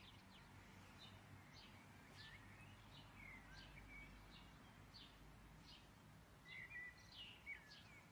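Faint birds chirping: a string of short high chirps with a few sliding notes, a little louder about two thirds of the way through.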